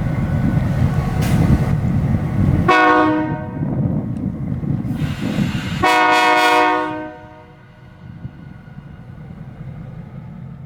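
Diesel locomotive air horn sounded twice: a short blast, then a longer one about three seconds later. A heavy low rumble fills the first few seconds and drops away as the first blast begins.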